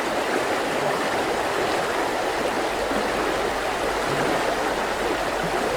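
Mountain river flowing, a steady even rushing of water.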